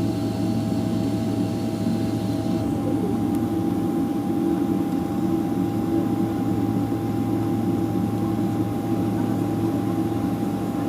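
Steady cabin drone inside a Boeing 777-300ER, with a constant whine running through it. A second, lower whine and a faint high tone cut off about three seconds in.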